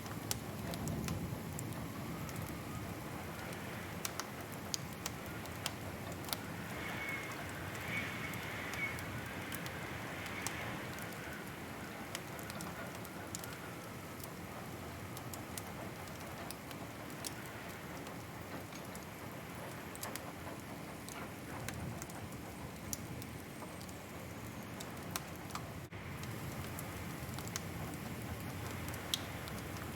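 Wood fire crackling: scattered sharp pops and snaps over a steady soft hiss and low rumble.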